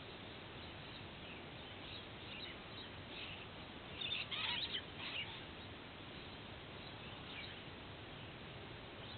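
Birds calling: scattered short, high chirps over a steady background hiss, loudest in a quick cluster about four seconds in.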